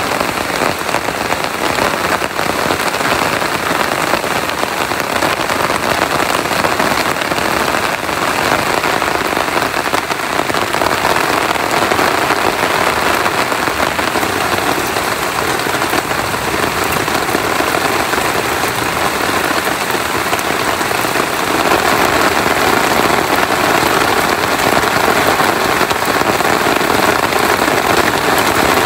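Steady heavy rain falling, a dense even patter that grows a little louder about two-thirds of the way through.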